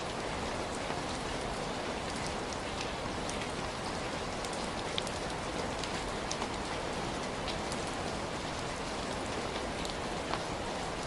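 Heavy rain falling steadily, a dense even hiss with many distinct drops ticking sharply on a surface.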